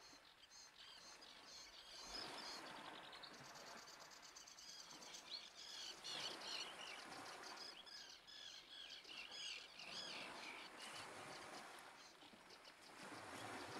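Faint chirping and twittering of small birds, busiest in the middle stretch, over a soft hiss of wind or surf that swells and fades.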